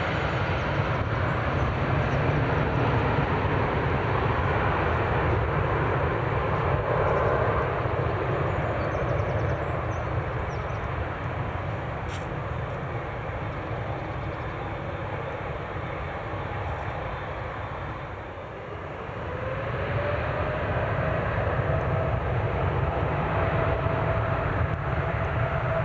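Jet airliner engines running as a loud, steady roar. The roar dips briefly about three quarters of the way through, then swells again with a rising whine that settles into a held tone.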